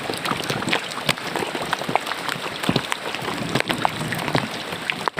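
Rain falling into a roadside drainage ditch: steady splashing water dotted with many sharp drips and small splashes.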